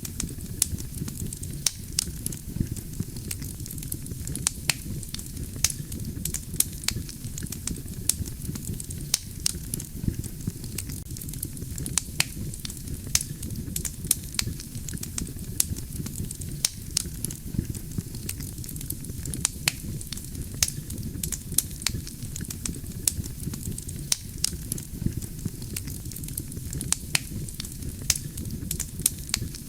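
Wood campfire burning: a steady low rumble of flames under frequent, irregular sharp crackles and pops from the burning firewood.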